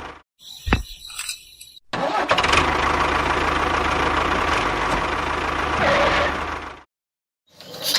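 A small engine runs steadily in stretches cut apart abruptly by edits. There is a short gap with a single thump near the start, and a half-second drop to silence near the end.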